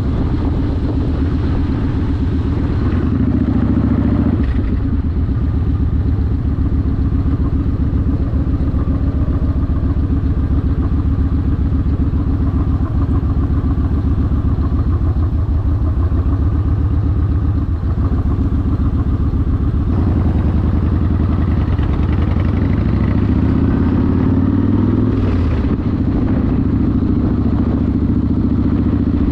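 Yamaha Warrior 1700's V-twin engine running through a custom exhaust, a steady, dense pulsing, with the revs rising briefly a few seconds in and again near the end.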